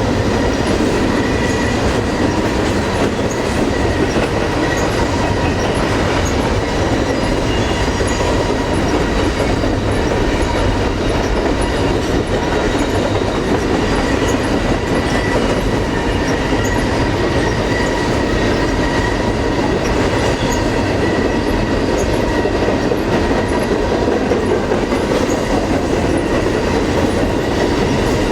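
Double-stack container train cars rolling past at steady speed: a continuous loud rumble of steel wheels on rail, with a faint steady high-pitched ring over it.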